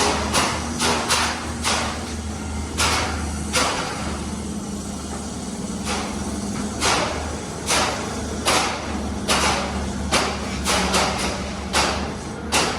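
Heavy construction machinery running, its diesel engine a steady low drone, with sharp metallic knocks and clanks coming irregularly about once a second.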